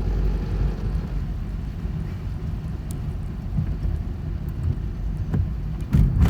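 Steady low road and engine rumble heard from inside a moving car's cabin, with a couple of short knocks near the end.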